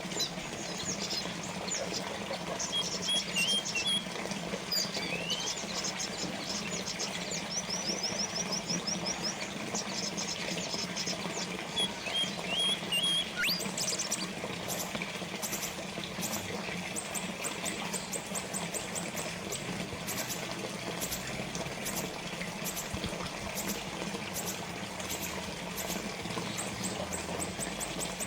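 Small fountain water trickling and splashing steadily, with small birds chirping and twittering over it: short high calls and quick trills, turning to a run of rapid clicking chirps about halfway through.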